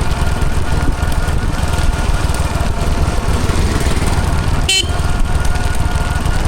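A 1995 Hero Honda CD100's small single-cylinder four-stroke engine runs steadily with a rapid, even beat while the motorcycle is ridden. About five seconds in there is a brief, sharp, high-pitched sound.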